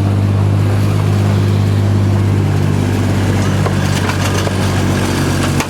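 Miniature locomotive's Vauxhall petrol engine running at a steady speed, a constant low hum, with a few light clicks in the last second or two.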